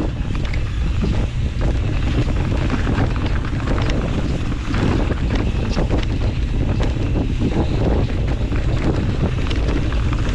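Wind buffeting the microphone of a camera riding along on a mountain bike at speed on a dirt trail, with a steady stream of clattering knocks from the bike over rough ground.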